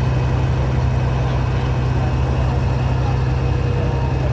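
New Holland 8010 tractor's diesel engine idling, a loud, low, steady drone.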